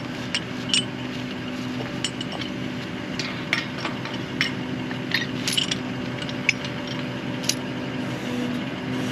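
An engine running steadily, with scattered sharp metallic clinks and taps over it, as the rig is readied to pull well pipe.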